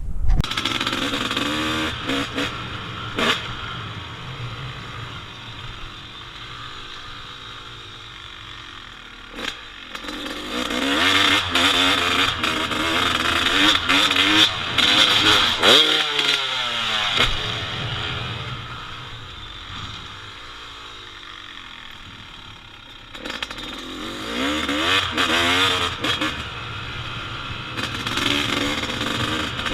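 Two-stroke dirt bike engine being ridden hard, its pitch climbing and dropping through revs and gear changes, with two stretches of heavy throttle about a third of the way in and again near the end, and lighter running between. A few sharp knocks and clatter from the bike over rough ground.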